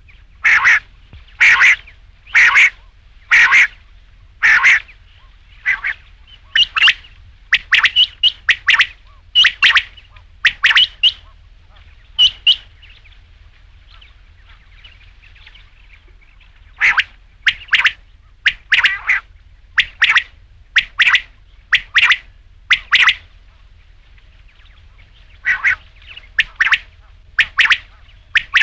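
Quail calling: a run of short, sharp calls about one a second, with two pauses of a few seconds, one just before halfway and one near the end.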